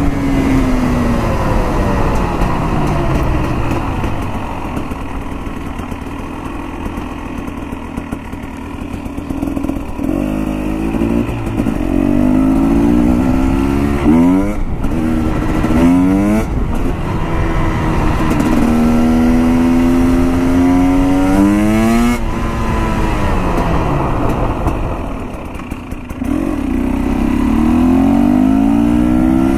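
KTM TPI two-stroke dirt bike engine accelerating hard through the gears, its pitch climbing in quick sweeps and dropping back at each shift, with two quieter stretches of backing off the throttle. The engine is running on 60:1 premix with its oil-injection pump deleted.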